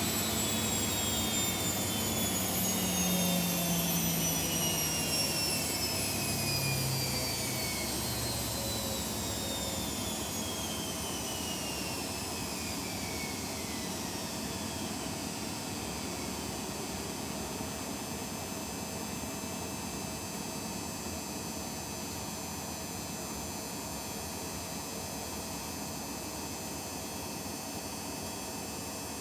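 Washing machines winding down from a high-speed spin cycle: several motor and drum whines fall steadily in pitch over about fifteen seconds while the level eases off, leaving a steady hiss and hum.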